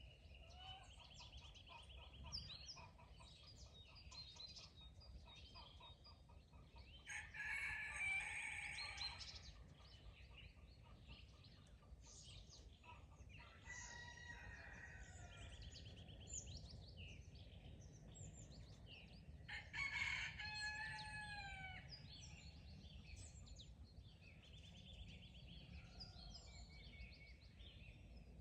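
A rooster crowing, clearest about seven seconds in and again around twenty seconds in, each crow lasting about two seconds. Between the crows, small songbirds sing repeated high trills and chirps over a faint low rumble.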